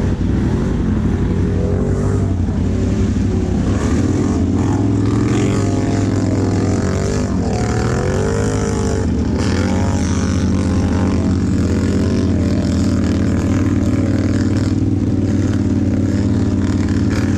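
ATV engine running under way, its revs rising and falling several times around the middle, then settling back to a steady drone.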